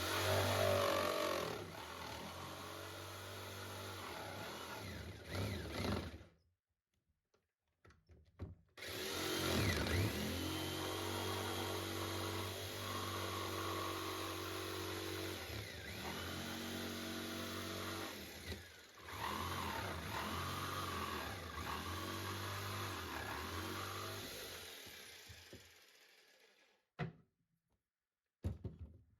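Electric power tool motor running in two stretches, the pitch wavering as it works under load. The second run winds down to a stop near the end.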